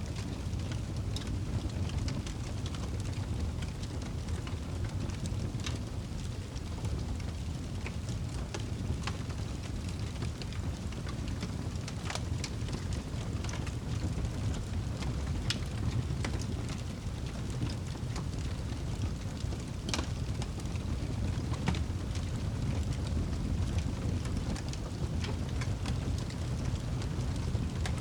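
Wood fire burning in a fireplace: a steady low rumble of flames with scattered, irregular crackles and pops from the logs, a couple of them sharper than the rest.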